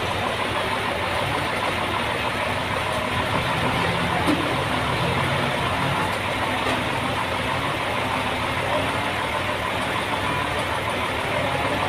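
Sawmill running steadily, an even, dense mechanical noise that holds the same level throughout.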